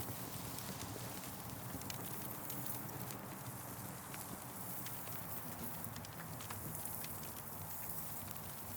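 Wood fire crackling: irregular sharp pops and snaps over a steady hiss and a low, even rumble.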